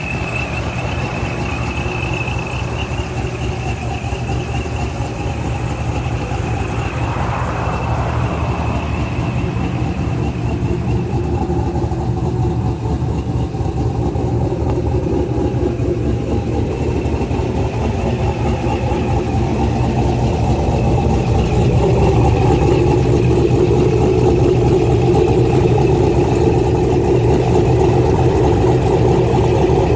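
Supercharged 6.0 L LS V8 with a BTR truck cam running steadily through longtube headers and true dual exhausts, with a thin high whine over the engine note that fades in the middle and comes back. The engine gets a little louder about two-thirds of the way in.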